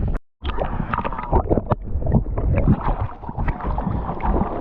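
River water splashing and sloshing close to the microphone, with many small splashes and wind rumbling on the mic. The sound cuts out completely for a split second near the start.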